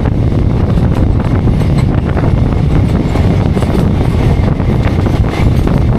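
Passenger train's ICF coaches running at speed, heard from aboard: a loud, steady rumble of wheels on rails, with wind noise on the microphone.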